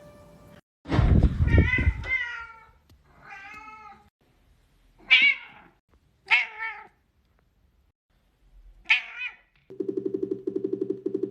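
A domestic cat meowing repeatedly, about five meows with pauses between them; the first is the longest and loudest. Near the end a fast, even rhythmic pulse of music begins.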